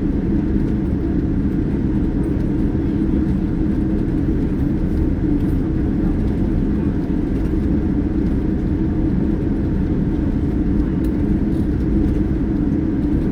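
Boeing 787-9 Dreamliner cabin noise: a loud, steady, deep rumble of engines and airflow with no change in pitch or level.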